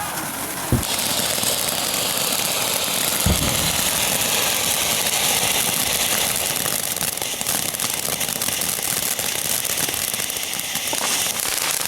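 Fireworks burning with a steady fizzing hiss and fine crackling, with two dull thumps about one and three seconds in.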